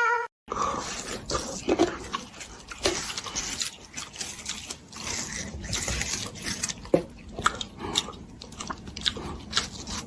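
A pet chewing something crunchy, with many irregular crunches.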